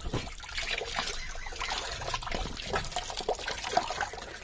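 Water trickling and splashing in many small irregular drips and spatters as a dog is bathed.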